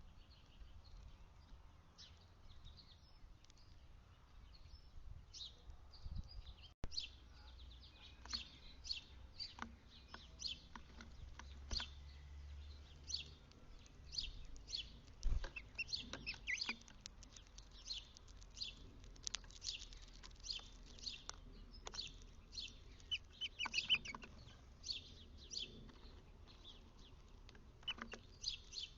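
Small birds chirping, short high chips coming several a second and getting busier after about six seconds.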